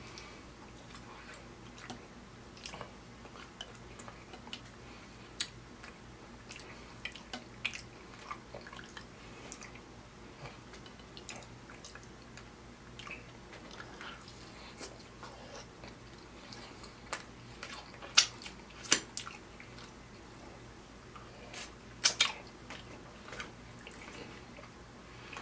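Close-up chewing of ribeye steak, with wet mouth clicks and smacks scattered throughout and a few louder smacks in the last third.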